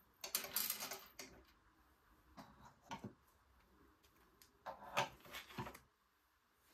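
Objects being handled: three short bursts of rustling and knocking, the loudest near the start and about five seconds in.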